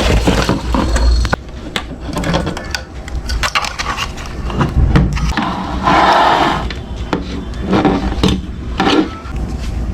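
Handling noises: a run of clicks, knocks and scrapes, with a burst of rustling about six seconds in and a low rumble underneath.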